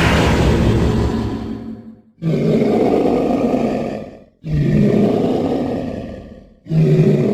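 Creature sound effects for a burrunjor, a dinosaur-like theropod: a series of deep, loud roars about two seconds apart. Each roar starts suddenly and fades away, with a brief silence before the next.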